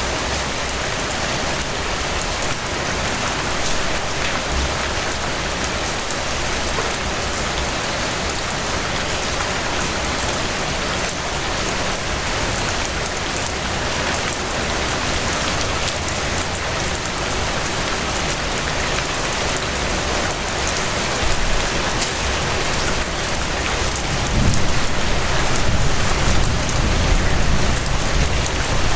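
Steady, fairly loud rainfall: a dense even hiss of rain hitting a surface, with individual drops ticking through it. A deeper low rumble swells underneath over the last few seconds.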